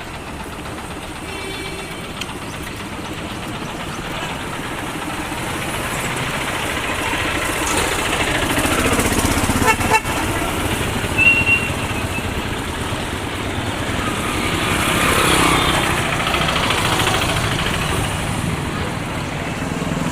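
Road traffic passing close by: vehicles and motorcycles swell and fade, and a short horn toot sounds about halfway through.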